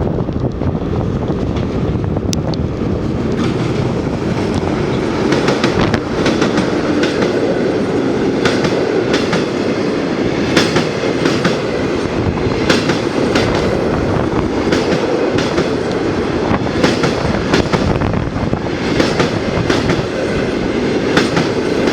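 Passenger train K7202's coaches rolling across a steel railway bridge: a steady loud rumble, with wheels clicking over the rail joints. The clicks come clearer and more regular a few seconds in.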